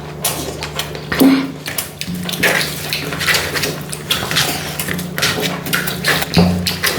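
Close-up eating sounds: wet chewing and mouth smacks over a mouthful of chicken curry and rice, with plates and utensils clicking irregularly.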